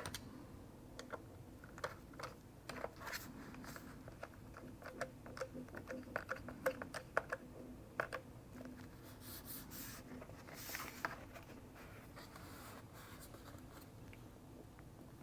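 Faint, scattered small clicks and light scraping from handling a laptop and small tools, thinning out after about eleven seconds.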